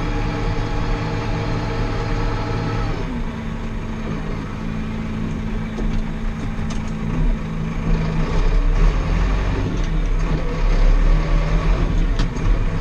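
Small four-wheel-drive Massey Ferguson tractor engine running steadily. Its note drops about three seconds in, and it grows louder and rougher in the second half.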